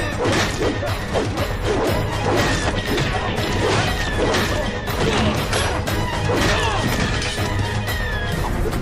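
Hand-to-hand fight sound effects: a rapid run of punch, kick and crash impacts over continuous action music.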